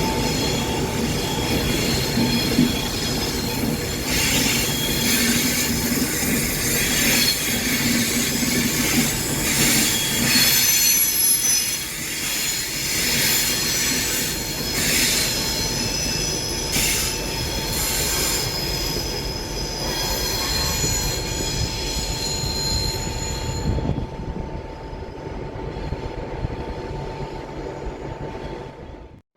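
A train rolling by with its wheels squealing against the rails: high-pitched, wavering squeals over a steady rumble. The squeal dies away about five seconds before the end while the rumble goes on.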